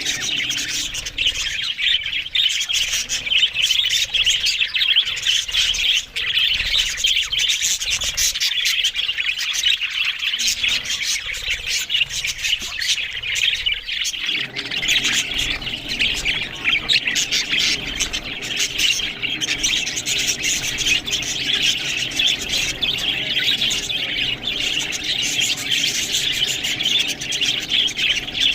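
Budgerigars chirping and chattering without a break, many calls overlapping.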